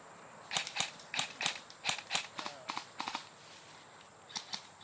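Quick footsteps of a person moving over the ground, about three steps a second, stopping about three seconds in and starting again near the end.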